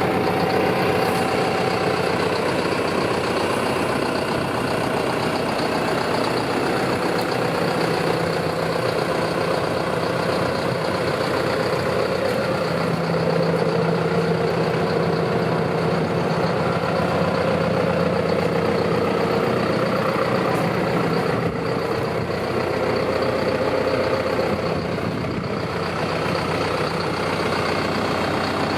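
John Deere 6430 tractor's four-cylinder diesel engine running steadily at low revs.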